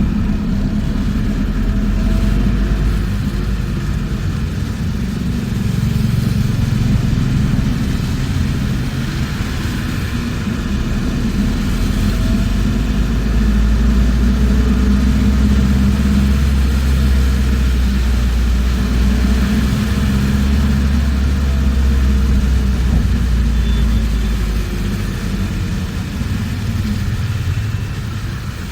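Inside a moving bus: steady low engine and road rumble, growing a little louder through the middle and easing off near the end.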